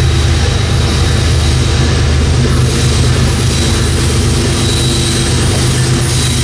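Diesel-electric locomotives of a heavy CSX freight train approaching slowly, with a steady, loud, deep engine rumble and a constant background roar.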